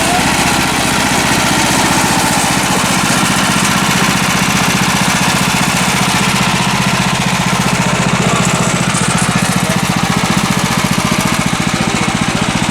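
Woodland Mills HM126 portable bandsaw mill running steadily: its small gas engine under load with a fast, even firing pulse and a hiss over it as the band blade cuts through the log.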